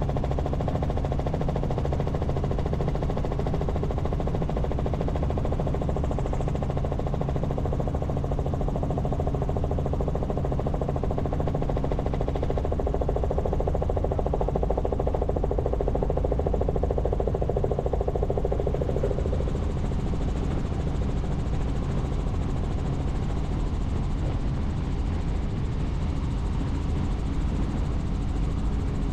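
Helicopter in flight: the steady drone of the rotor and turbine engine, holding a constant low hum. About two-thirds of the way through, part of the higher noise falls away.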